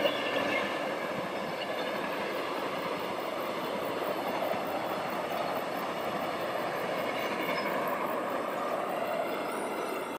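Passenger train running past at speed, a steady rushing rumble of wheels on the track, with faint high whining tones near the start and again near the end.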